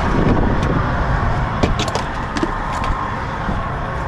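A vehicle running: a steady rumble with a faint hum, and a few sharp clicks and knocks over it.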